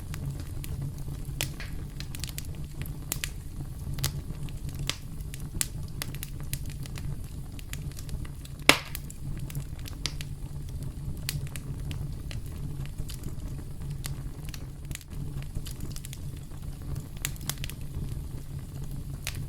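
Campfire crackling: a steady low rumble of burning wood with many sharp pops and snaps, and one loud pop a little under halfway through.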